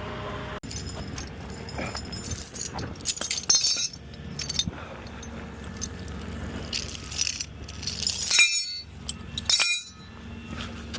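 Irregular sharp metallic clinks and rattles in several clusters, over a steady low hum.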